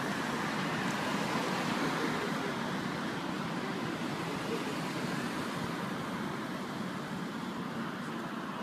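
Steady road and engine noise of a moving car, fading slightly towards the end.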